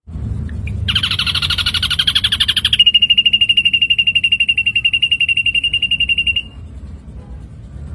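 Ashy drongo singing: a fast, buzzy, rattling trill begins about a second in, then runs straight into a long, even, high trill on a single pitch lasting several seconds, which stops near the end.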